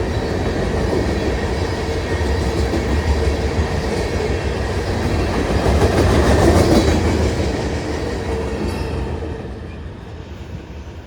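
Freight cars of a train rolling past, wheels clacking over the rails with a steady ringing tone from the wheels. Loudest about six seconds in, then fading quickly near the end.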